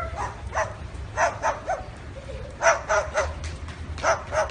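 Parrot imitating a dog's barking: a string of short, sharp barks in small groups of two or three.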